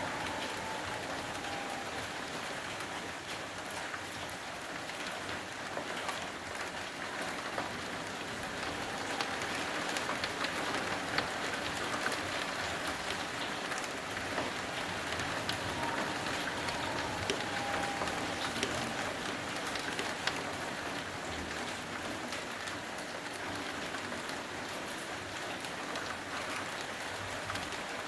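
Steady rain falling over streets, trees and buildings, with scattered close drops ticking on a nearby surface.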